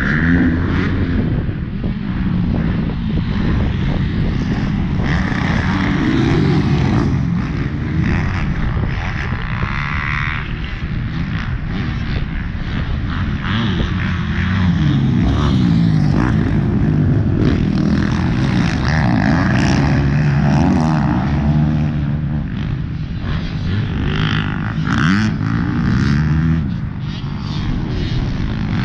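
Motocross bike engine being ridden hard, its pitch rising and falling over and over as the rider revs up and backs off.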